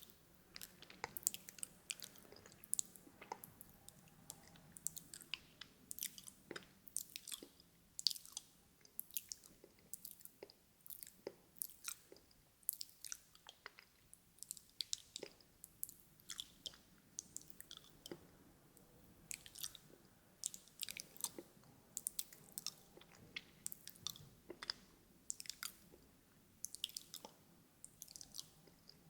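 Close-miked ASMR mouth sounds: wet clicks and smacks of lips and tongue, several a second in irregular runs with short lulls.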